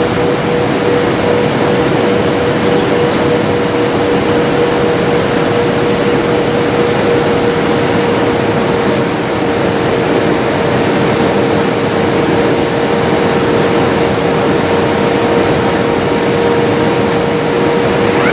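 Jet airliner cabin noise in flight: a steady rush of engine and airflow noise with a constant hum running through it.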